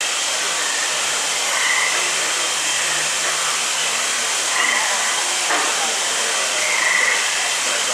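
Steady rushing hiss of water pouring down an artificial volcano's waterfalls into its pond, with a short high chirp repeating about every two seconds.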